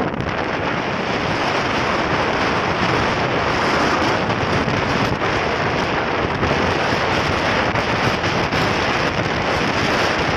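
Steady, loud wind rush buffeting the microphone of a moving motorcycle, Hero HF Deluxe, drowning out the engine.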